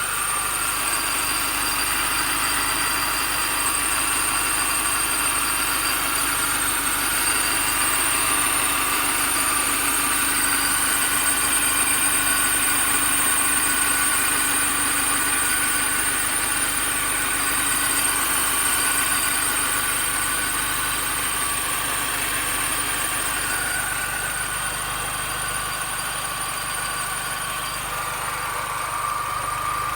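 2005 Mini Cooper S's supercharged four-cylinder engine running steadily with a strange noise in it, a steady high-pitched whine over the engine, which the owner guesses comes from the idler pulley.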